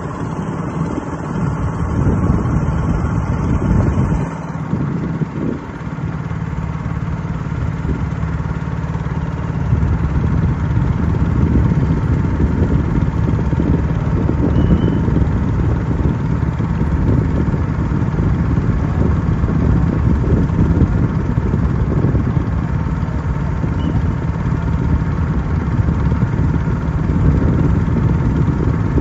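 Boat's engine running steadily, a low even hum that dips briefly a few seconds in and grows louder from about ten seconds in.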